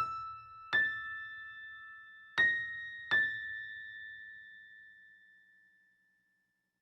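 Music: four piano notes struck one after another within about three seconds, each ringing on and fading, the last dying away to silence about six seconds in.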